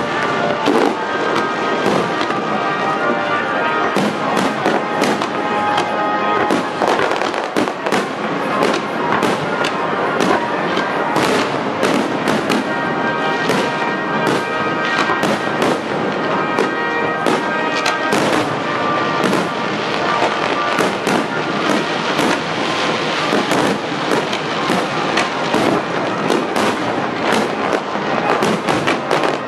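Aerial firework shells bursting in quick succession: a dense run of many sharp bangs, with music playing alongside.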